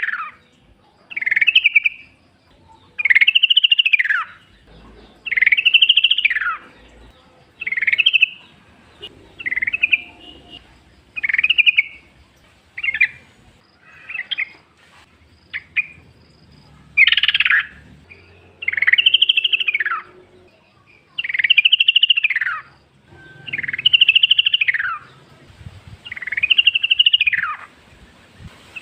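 Yellow-vented bulbul (trucukan) singing loudly in repeated short phrases, each rising then falling in pitch. The phrases come about one every two to two and a half seconds, with shorter, choppier notes around the middle.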